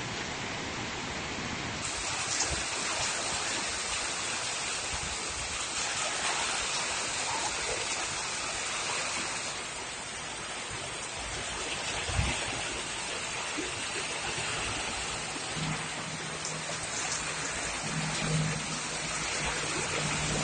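Heavy rain falling steadily on a wet street, a dense hiss of rain on the road surface. In the last few seconds a low engine hum joins in as a lorry drives through the standing water.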